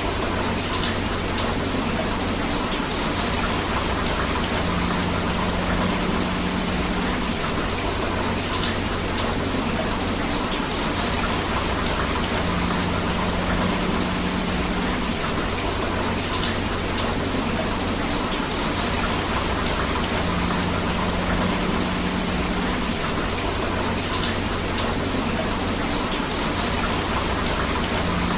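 Steady rain together with flowing river water: an unbroken, even hiss. A faint low tone comes and goes about every eight seconds.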